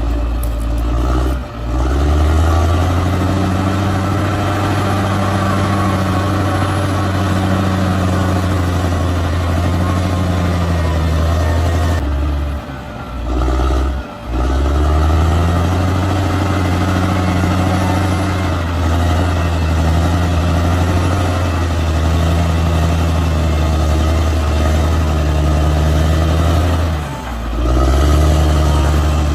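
Large bulldozer's diesel engine running steadily, with short breaks about a second and a half in, twice around halfway, and again near the end.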